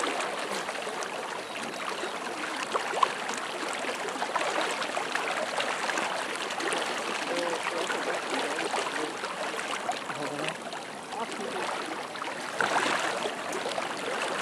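Steady rush of a flooded river's fast-flowing water, with a single sharp click about three seconds in.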